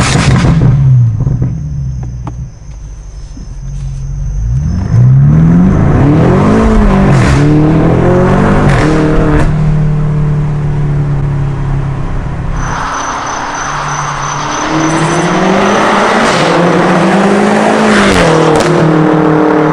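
BMW F90 M5's twin-turbo 4.4-litre V8 through a DunnFab catback exhaust, accelerating hard: the revs climb and drop back at each upshift, hold steady for a few seconds in the middle, then climb and fall again.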